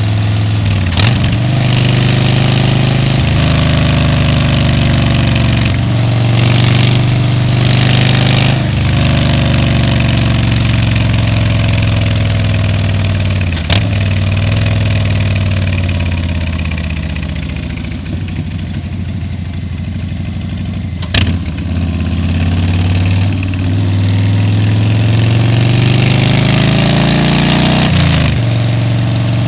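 Motorcycle engine and exhaust under way, heard from a helmet-mounted camera: the engine pitch rises and falls repeatedly as the bike accelerates, shifts and eases off, with three sharp clicks along the way and a softer stretch in the middle.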